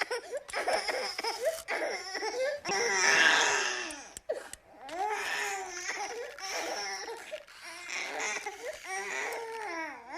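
A high-pitched voice making wordless, sobbing or giggling cries in short bursts that rise and fall, with brief gaps between them.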